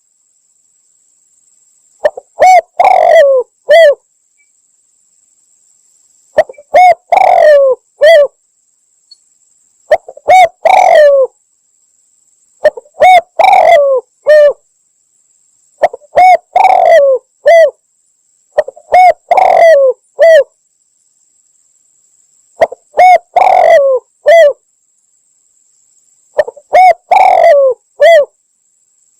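Spotted dove (derkuku / tekukur) cooing as a lure call: a phrase of several coos, repeated eight times with pauses of one to two seconds between. Very loud and clipped, over a faint steady high-pitched whine.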